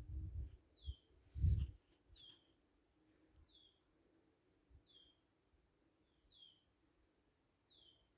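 A bird repeating a short two-note call over and over, a high steady note followed by a falling one, about once every second and a half. Low rumbling thumps come at the start, the loudest about a second and a half in.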